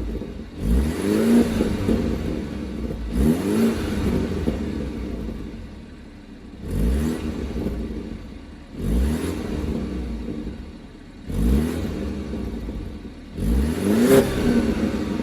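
Stock exhaust of a 2018 BMW 530i, its 2.0-litre turbocharged four-cylinder blipped six times about every two seconds, each rev rising and then falling back to idle.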